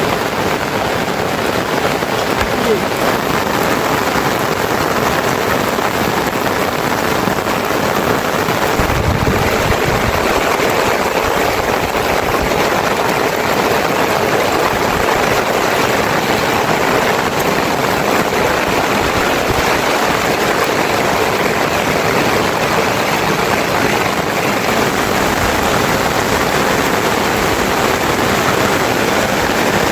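Heavy rain falling steadily, an even hiss with a short low rumble about nine seconds in.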